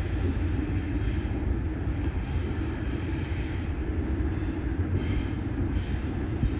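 Train passing, a steady heavy rumble of its wheels on the rails.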